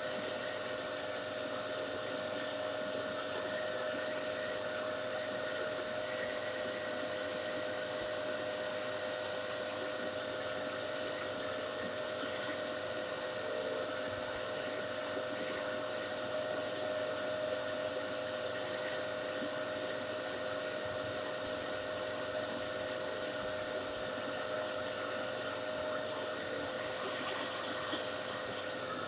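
Dyson DC07 bagless upright vacuum cleaner running steadily, its motor giving a constant whine with a high steady tone over the rush of air.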